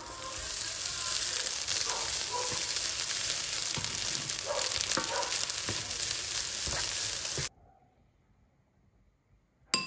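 Food frying in a pan: a steady sizzle with small crackles that cuts off suddenly about three-quarters of the way through, followed by a single sharp click near the end.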